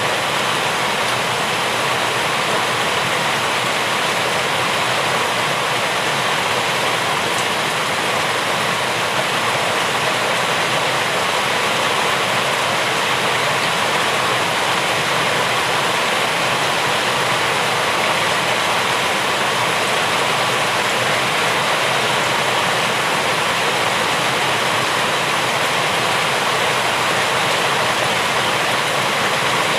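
Steady rain falling: an even, unbroken hiss of water that holds the same level throughout.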